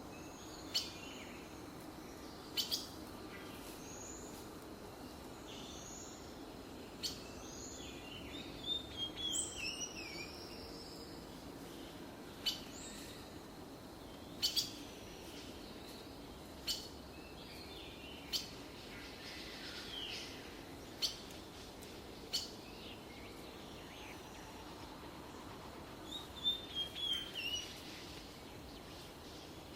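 Small birds calling: short, sharp chirps every second or two and a few quick falling runs of notes, over steady low background noise.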